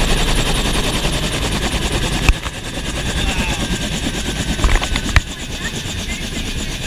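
Huey helicopter's rotor and turbine running, heard from inside the open cabin, with a fast beating pulse. About two seconds in there is a sharp knock, after which the noise is somewhat quieter, and a few more knocks follow.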